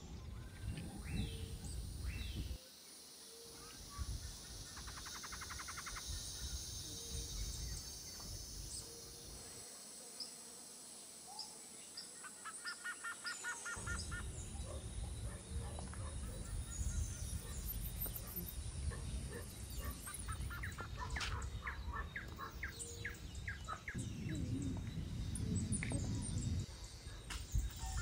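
Birds chirping and calling, with a few short rapid trills, over a low rumbling background that drops out twice.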